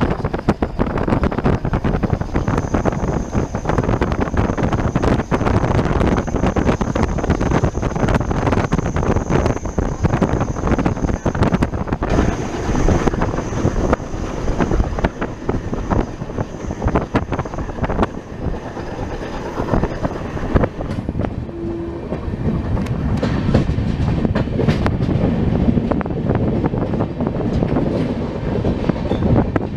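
Indian Railways passenger coach running at speed, heard from an open doorway: the wheels rumble and clack over the rail joints, with wind rushing past. A thin, steady high squeal rides over it for the first twenty seconds or so and then fades.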